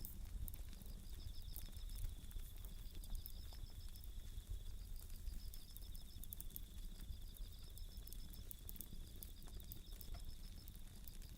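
Bell crickets (suzumushi) trilling steadily at a high pitch, over a campfire's scattered crackling pops and low rumble.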